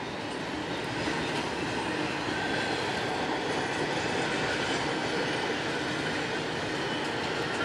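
Freight cars of a CSX train, mostly intermodal well cars, rolling past: a steady noise of steel wheels on rail.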